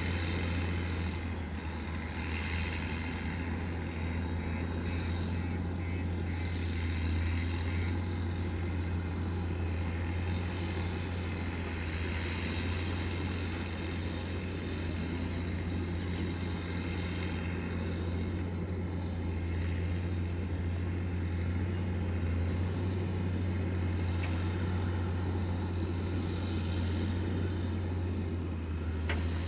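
Heavy diesel engine running steadily at a constant speed, a deep even drone with no change in revs.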